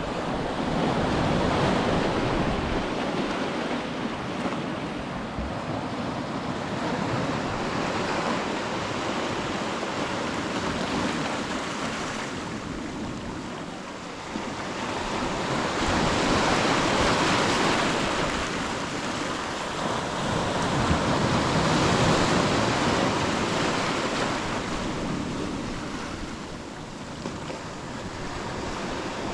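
Ocean surf: waves breaking and washing up a beach, the rush of water swelling and easing in slow surges every several seconds.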